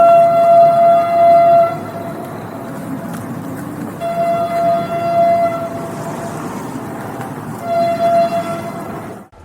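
Train horn sounding three blasts, the first two long and the third short, over the steady rumble of the train.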